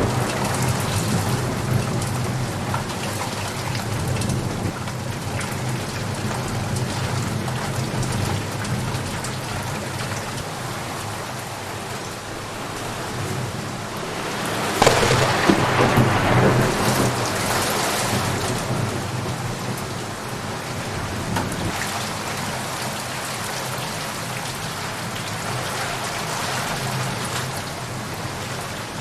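Steady rain falling, with thunder: a thunderclap breaks about halfway through and rumbles on for a few seconds before the rain alone carries on.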